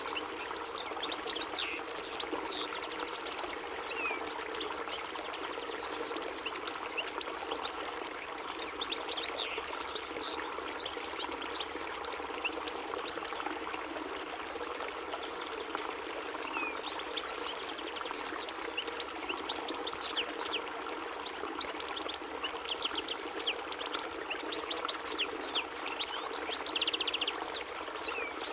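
European goldfinch singing: long runs of rapid twittering chirps and trills, over a steady rushing background noise.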